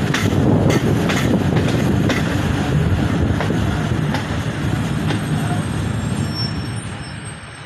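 Hazara Express passenger train running on the rails: a steady low rumble with wheels clicking over the rail joints, dying away near the end as the train slows into the station.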